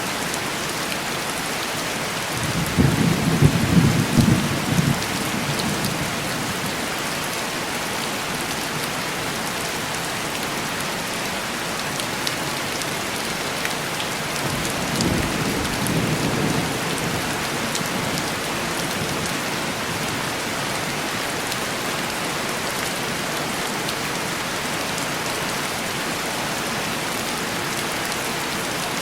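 Steady heavy rain pattering on window glass, with two rolls of distant thunder: a louder rumble about three seconds in that lasts a few seconds, and a weaker one around fifteen seconds in.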